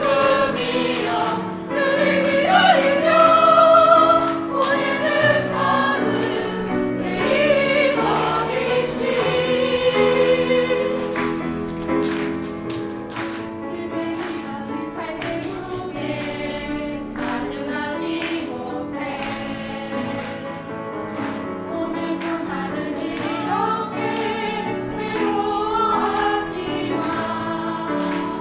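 A choir sings a song with accompaniment, over a steady beat of hand claps about twice a second.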